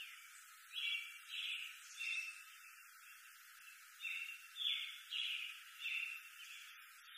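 A bird calling over and over in short, slightly falling notes, about two a second, with brief pauses between runs, over a faint hiss.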